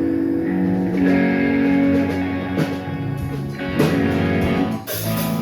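Amplified electric guitar ringing out held chords between songs, with a few picked notes struck over the sustained sound.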